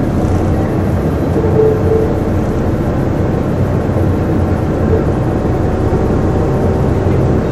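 Volvo B7TL double-decker bus heard from on board: a loud, steady drone of its engine and driveline with a whining 'hoover' note.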